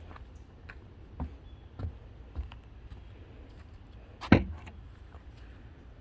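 Footsteps on a woodland trail and rubbing on the handheld camera, with about three soft knocks at walking pace early on. A single sharp, loud knock comes a little over four seconds in.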